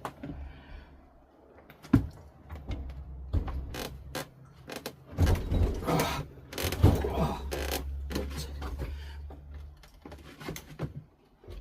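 Metal knocks, clanks and creaks as a motorcycle engine is worked onto a lifting stand, over a steady low hum that stops near the end.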